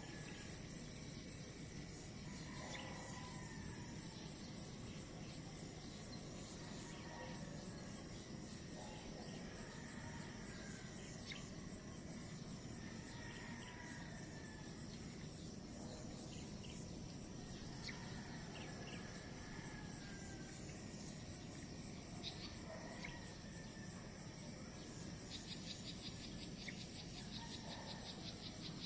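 Outdoor nature ambience: a steady hiss of insects with short chirping calls recurring every few seconds, and a rapid insect trill starting near the end.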